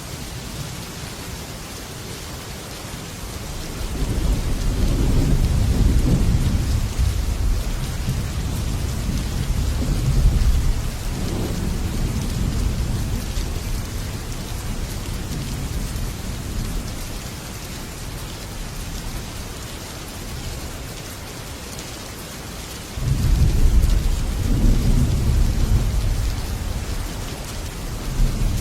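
Heavy rain drumming steadily on a metal roof, with two long rolls of thunder: one rumbles in about four seconds in and fades after several seconds, and a second breaks in sharply near the end.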